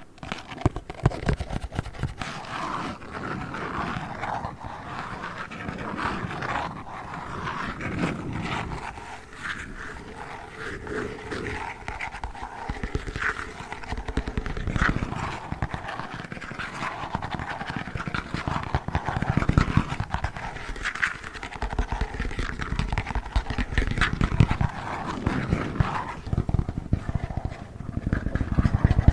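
Plastic packaging of Play Foam handled close to the microphone: a dense, irregular run of crinkles, taps and rubbing scratches.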